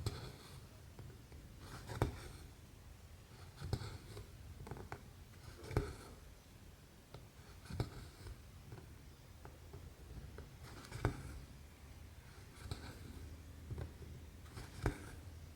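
Cross-stitch needle and thread working through 11-count stamped fabric: sharp ticks every second or two as the needle pokes through, each followed by a short rasp of thread drawn through the cloth.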